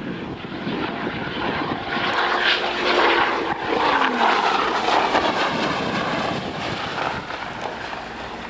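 Twin-turbo Dodge Viper's V10 passing at high speed on a standing-mile run. It grows louder to a peak a few seconds in, its pitch drops as it goes by, and then it fades away.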